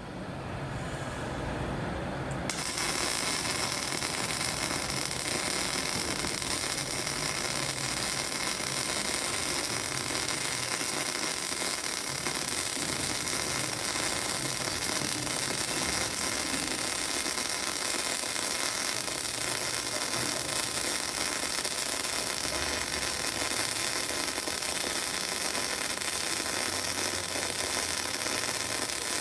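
MIG welding arc on steel pipe, crackling steadily; it starts abruptly about two seconds in and then runs evenly.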